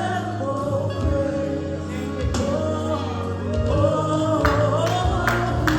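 Gospel music: singing over a band with steady bass notes. Drum and cymbal hits come in about four and a half seconds in.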